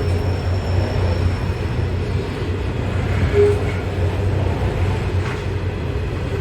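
Sydney Trains electric suburban train moving through the station with a steady low rumble, and a short higher note about three and a half seconds in.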